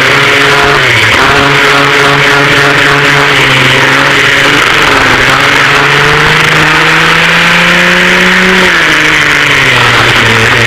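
Engines of a vintage dual rear-engine racing kart at race speed, heard onboard and loud. The pitch dips briefly about a second in and again around four to five seconds, then climbs steadily for several seconds before dropping sharply near the end.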